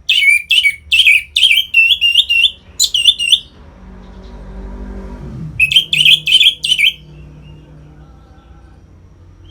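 Orange-headed thrush singing in full voice: a fast run of loud, sharp, repeated high notes, a pause, then a second run a little past halfway. In the gap a fainter low hum falls in pitch.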